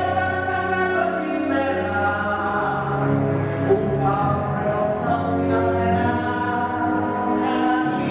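Music with several voices singing long, held notes.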